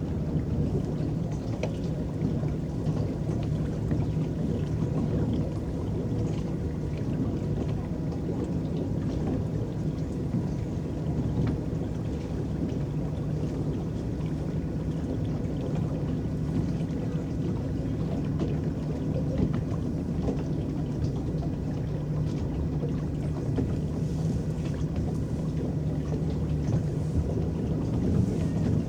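Electric boat under way on a lake: a steady low rumble of water churning and lapping at the hull, with a faint steady hum from the drive.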